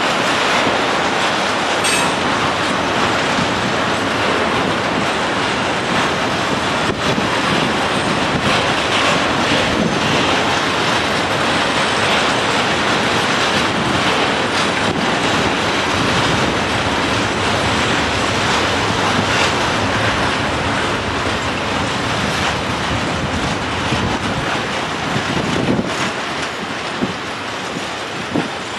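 Freight train of tank wagons rolling past: steady rumble of wheels on rail with the clickety-clack of wheels over the rail joints, easing off slightly near the end.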